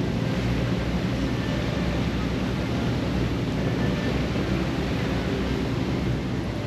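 Steady rumble and rush of a harbour cruise boat under way: engine drone mixed with wind and water noise.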